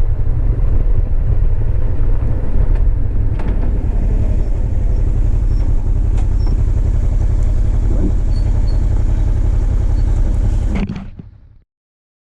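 Motorcycle on the move, heard mostly as heavy wind rumble on the microphone with road and engine noise beneath. It fades out to silence near the end.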